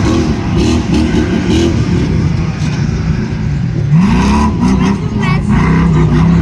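Side-by-side UTV engines revving hard, their pitch repeatedly rising and falling as the machines race; one engine sweeps sharply upward about four seconds in, and a steadier engine note holds near the end.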